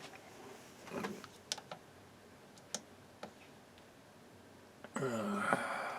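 Scattered small clicks and taps from handling the open transistor radio and its parts, a few seconds apart. A short voice-like sound comes near the end.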